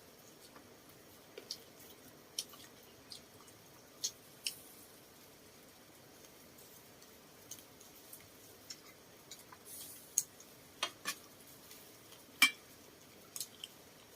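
Scattered light clicks and clinks of chopsticks and spoons against bowls and dishes, with a louder clink about twelve seconds in.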